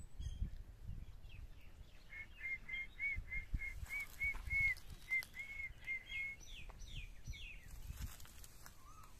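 A bird calling: a run of about a dozen short, evenly repeated notes, roughly three a second, then a few quick falling notes, over a low rumble.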